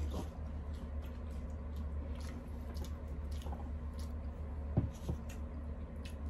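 Close-up chewing and wet mouth smacks of people eating by hand, with scattered small clicks, over a steady low hum. A short, louder thump comes a little before five seconds in.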